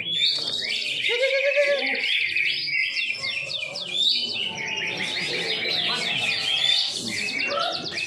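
Several cucak ijo (greater green leafbirds) singing at once, in dense overlapping runs of rapid chirps and whistled trills.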